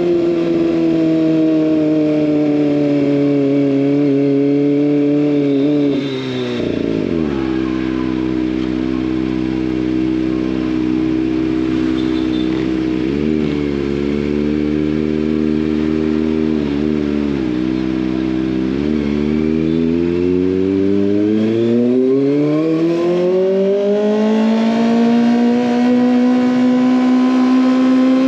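Kawasaki ZX25R inline four-cylinder engine through an SC Project exhaust. Revs ease down, then drop to idle about six seconds in, with a few short throttle blips while idling. It then climbs steadily as the bike pulls away, and holds a higher pitch near the end.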